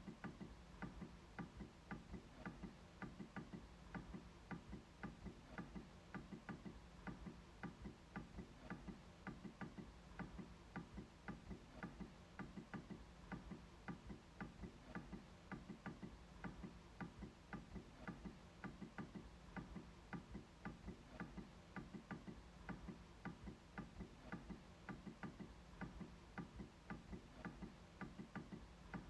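MacBook trackpad being clicked over and over: faint, short, sharp clicks at an even pace of about three a second.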